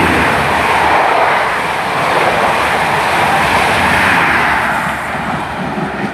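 InterCity 125 (HST) high-speed diesel train passing through a station at speed, a loud continuous rush of power cars and coaches on the rails that begins to fade about five seconds in as the train goes by.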